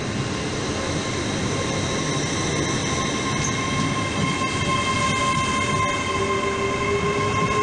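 Train moving along the station platform: a steady rumble with several steady high-pitched squealing tones from its wheels, growing slightly louder.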